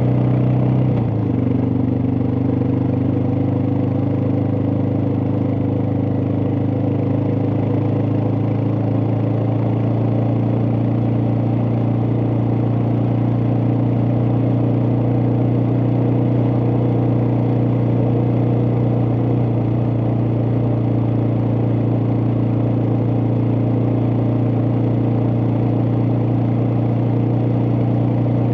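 Suzuki DR650's single-cylinder four-stroke engine running at a steady cruising speed, with a brief change in pitch about a second in.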